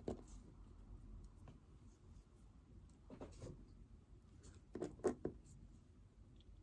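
Pen writing on paper in a small quiet room: faint, scattered scratching strokes, with a brief cluster a few seconds in and a couple of sharper clicks or knocks about five seconds in.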